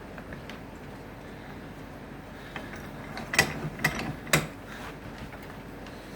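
A few sharp clicks and knocks, three loud ones about half a second apart a little past the middle, with fainter ticks before them.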